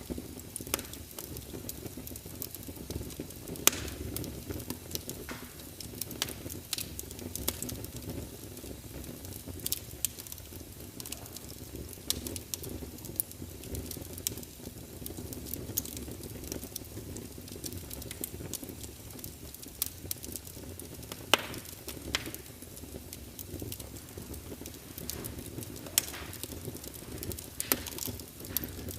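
Wood fire burning in a fireplace: a steady low rumble of flames with irregular sharp crackles and pops from the burning wood, two louder pops standing out.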